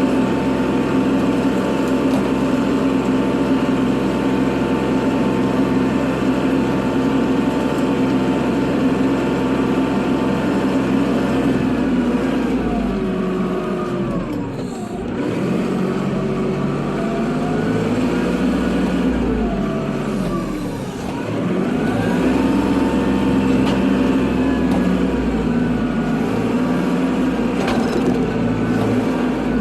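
Kubota tractor's diesel engine running steadily under throttle, then twice in the second half its pitch sags and climbs back up, about six seconds apart.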